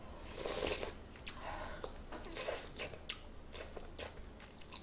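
A person chewing a spoonful of doenjang stew with tofu: soft mouth sounds with scattered small clicks.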